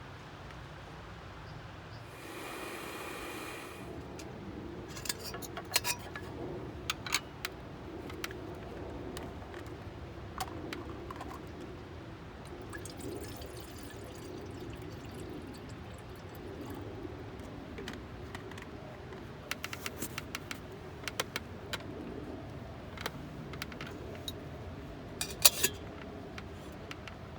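Liquid briefly pouring about two seconds in, then scattered light clicks and clinks of small hard items being handled, with a few sharper knocks near the end.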